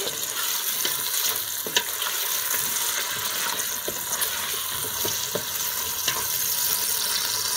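Chopped tomatoes, onions, ginger and garlic sizzling steadily in hot olive oil in a stainless steel pot while being stirred with a wooden spoon, with a few faint clicks of the spoon against the food and pot.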